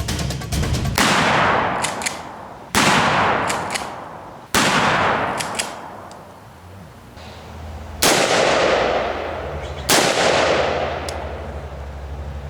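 Five 9mm handgun shots, irregularly spaced over about nine seconds, each followed by a long fading echo.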